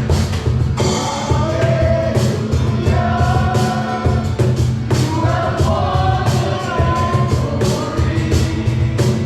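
Live worship band playing a song with a steady drum-kit beat and bass, with sung melody coming in about a second in.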